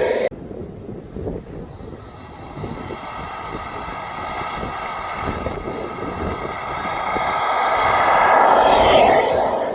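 A vehicle running and drawing nearer, building gradually to its loudest about nine seconds in and easing off near the end; the sound changes abruptly just after the start.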